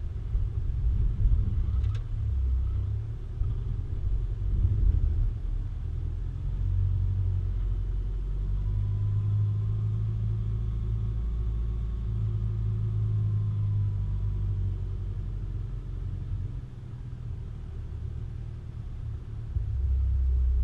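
Low, steady rumble of a vehicle on the move, with a single sharp click about two seconds in.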